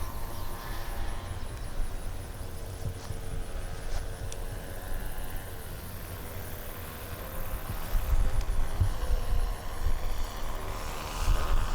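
Model airplane engine throttled back to a low idle on a landing approach, its faint steady note under heavy wind rumble on the microphone. The rumble gets louder about two-thirds of the way through.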